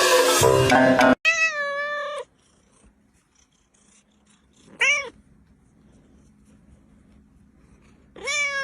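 Domestic cat meowing three times: one long meow, a short one in the middle, and another near the end. Music plays for about the first second and cuts off abruptly.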